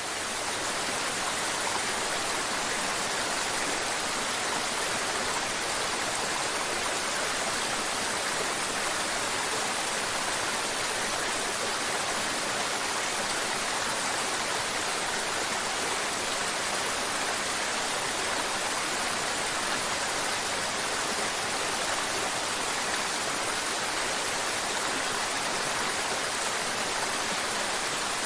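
Mountain river water flowing steadily: a continuous babbling rush with no breaks.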